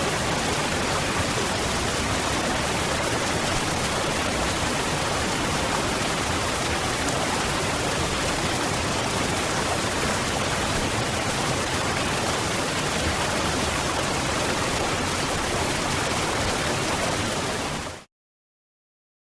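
Waterfall: a steady, even rush of falling water that cuts out to silence near the end.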